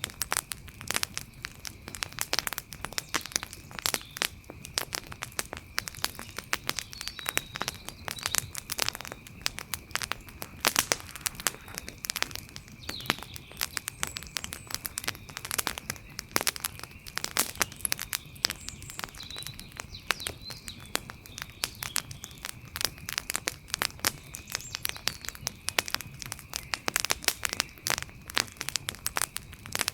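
Wood fire crackling: a dense, irregular run of sharp pops and snaps. Behind it are a steady faint high tone and a few faint chirps.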